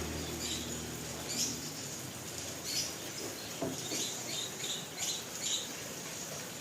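Heavy rain with hail falling in wind: a steady hiss of rain, with irregular sharp high hits every half second to a second.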